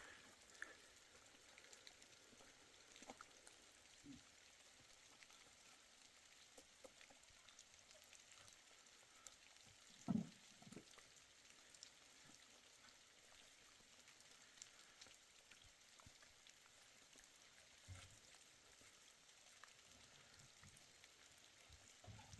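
Near silence: a faint steady hiss with scattered soft ticks, and one brief low knock about ten seconds in.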